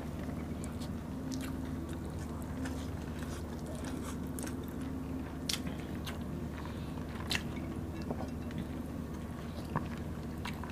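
Two people chewing and eating by hand, rice with banana-blossom salad and fried dried milkfish: scattered soft mouth clicks and smacks over a steady low hum.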